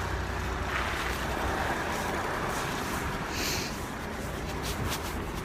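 Steady low rumble under an even hiss, with a short burst of higher hiss about three and a half seconds in.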